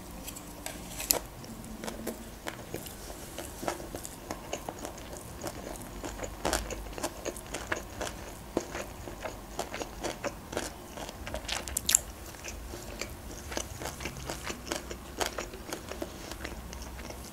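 Close-miked chewing of a sushi roll: a steady run of small wet mouth clicks and soft crunches, with two sharper clicks, about a second in and about twelve seconds in.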